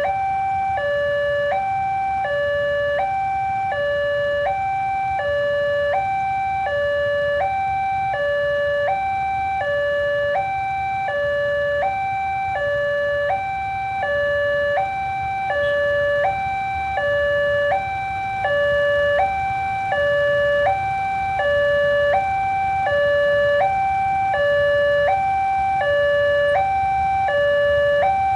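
Railway level crossing warning alarm sounding a steady two-tone electronic signal, alternating between a low and a high tone about every 0.7 seconds: the crossing is closed because a train is approaching.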